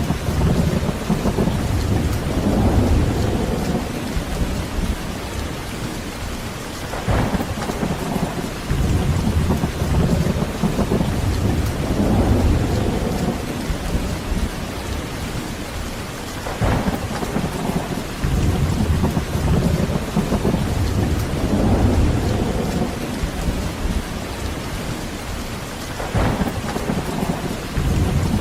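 Heavy rain falling steadily, with thunder rumbling again and again: low rolls swell and fade every few seconds, and a sharper crack comes three times, about 7, 16 and 26 seconds in.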